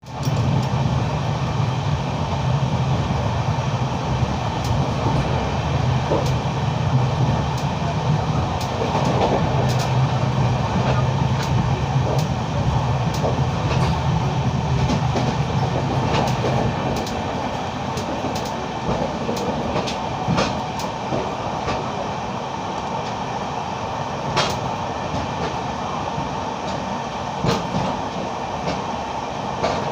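Indian Railways train running at speed: a steady rumble with scattered sharp clicks of the wheels on the track. A deep low hum underneath drops away about seventeen seconds in.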